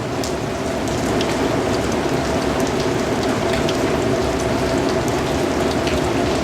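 Steady rain falling, with scattered individual drops ticking sharply over an even hiss.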